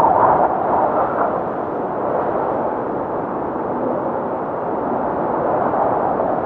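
Strong blizzard wind blowing, a steady rushing noise with a howling tone that fades out in the first second or so.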